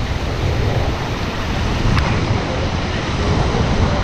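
Steady rush of river water mixed with wind buffeting the microphone as a low rumble, with a single sharp click about two seconds in.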